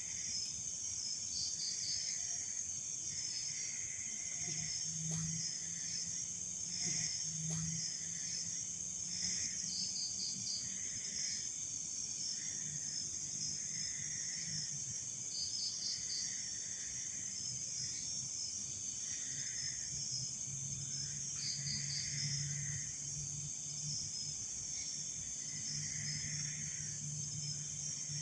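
Night insect chorus: a steady high shrill of crickets, with short pulsed chirps repeating every couple of seconds over it. A faint low drone comes and goes underneath.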